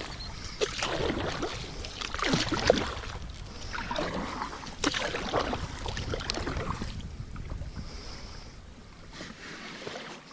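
Water splashing and sloshing irregularly around a kayak in shallow river water, with a low wind rumble on the microphone.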